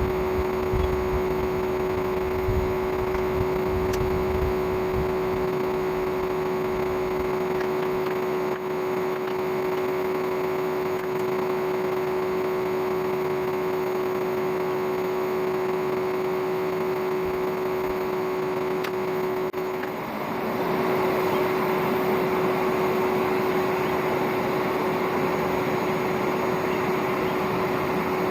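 Old vacuum cleaner motor running as the air blower for a coal forge: a steady hum with a rush of air. About twenty seconds in it dips briefly, then runs on a little louder.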